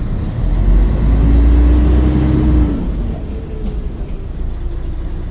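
Scania L113CRL bus's diesel engine pulling hard with a deep rumble and a steady whine that rises slightly, then easing off about halfway through as the sound drops to a lighter running noise.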